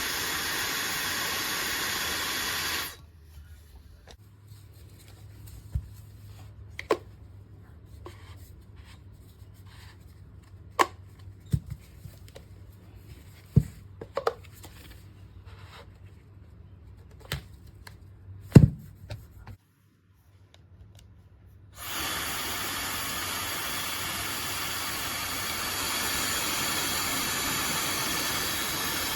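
Fentgo high-speed brushless hair dryer blowing steadily, switching off about three seconds in. Then a quiet stretch of scattered clicks and knocks from handling it, a couple of seconds of dead silence, and the dryer blowing again for the last seven seconds, with a faint high whine entering near the end.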